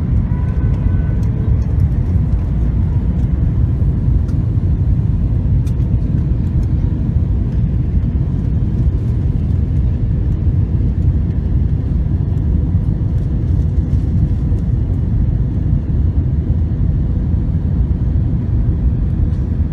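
Steady low rumble of a passenger airliner.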